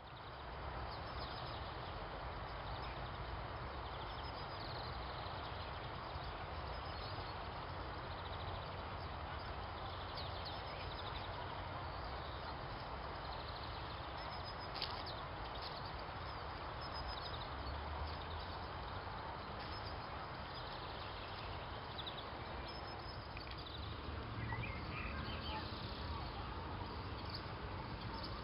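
Steady outdoor background noise with a few faint clicks, and small birds chirping near the end.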